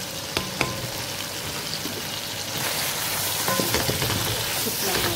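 Diced chicken sizzling in hot oil in a pan, with a few sharp ticks near the start. About halfway through the sizzle grows louder as a spatula stirs the pieces.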